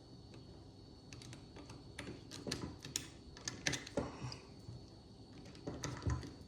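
Small hand tools clicking and tapping on a Holley carburettor's accelerator pump lever as its adjusting screw and locknut are tightened: light, irregular metal clicks, bunched between about two and four seconds in and again near the end.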